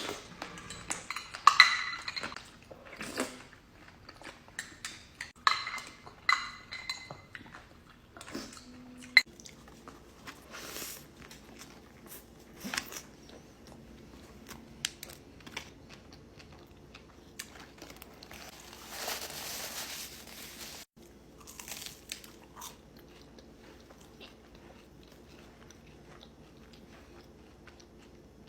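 Close-miked mukbang eating: crunchy bites and chewing, loud and dense for the first several seconds, then quieter, scattered chewing clicks, with a brief hiss about two-thirds of the way through.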